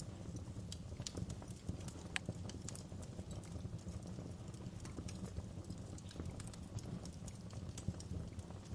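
Wood fire burning in a fireplace: a steady low rumble of flames with irregular sharp crackles and pops, one louder pop about two seconds in.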